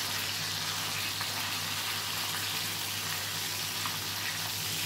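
Masala-coated parrot fish pieces shallow-frying in hot oil, a steady sizzle, with a few faint ladle scrapes and ticks as the pieces are turned.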